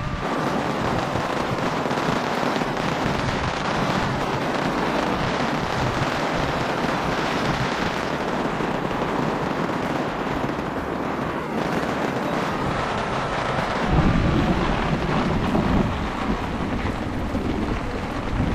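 Heavy rain pouring steadily. From about fourteen seconds in, strong wind gusts rumble and buffet the microphone.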